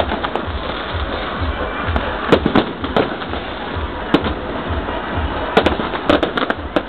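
Aerial fireworks going off: sharp bangs and cracks at irregular intervals, several in quick succession near the end, over a constant din of crackle.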